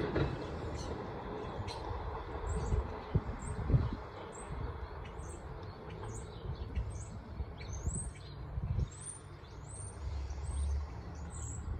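A small bird chirping over and over, short high chirps about one or two a second, over the low rumble of an R44 subway train pulling away.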